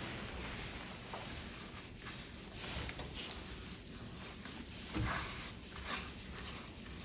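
Kitchen handling noises: a few short knocks and taps over a steady hiss that cuts off abruptly at the end.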